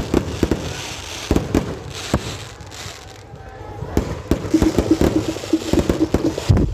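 Fireworks going off: an irregular run of sharp bangs and pops, thinning out for a moment about three seconds in before picking up again.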